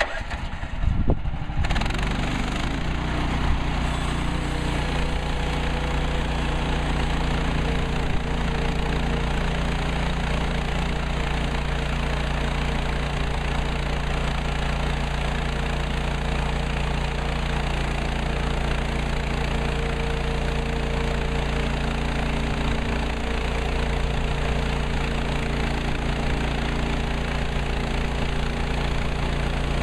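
Engine of a Woodland Mills HM130MAX portable bandsaw mill coming in suddenly, a second or so of rough noise, then running steadily at constant speed.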